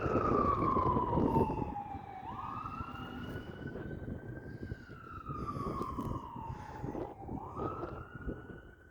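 Fire truck siren on a wail, its pitch sliding slowly down and then quickly back up, twice. It sounds over the truck's engine, which is loudest in the first two seconds and then fades as the truck moves off.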